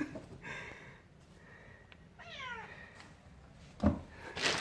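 Burmilla kitten meowing: a faint high call, then a short falling meow about two seconds in. A sharp thump comes near the end.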